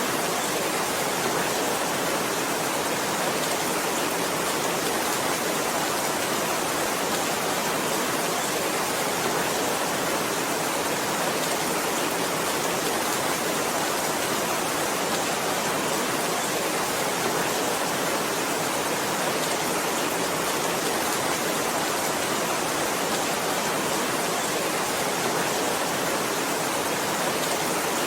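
Heavy rain falling as a steady, even hiss, with no separate drops or thunder standing out.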